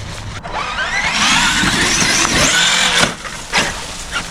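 Traxxas Xmaxx electric RC monster truck's brushless motor and drivetrain whining as it climbs a hill, the pitch rising quickly as it accelerates, then cutting off about three seconds in. A few sharp knocks follow.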